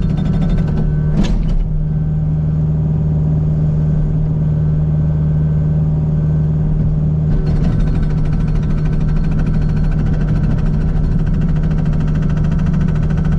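Kubota U55 mini excavator's diesel engine running steadily under load, with its Agrotk 680 hydraulic hammer chattering in rapid blows against solid sandstone in the first second and again from about seven seconds in. A single knock sounds about a second in.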